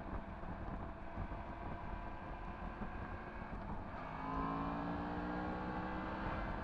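Yamaha MT-10 SP motorcycle running on an Akrapovič exhaust while riding, with wind rushing over the microphone. About four seconds in, the engine note firms up and gets a little louder, holding a steady to slightly rising pitch as the throttle is opened.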